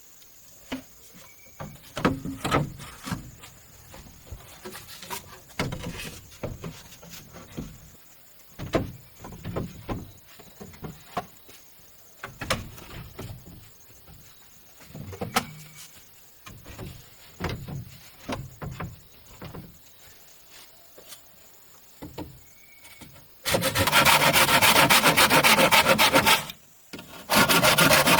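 Bamboo being worked by hand: scattered knocks and scrapes, then near the end a loud continuous rasping of a saw cutting through bamboo, which stops briefly and starts again.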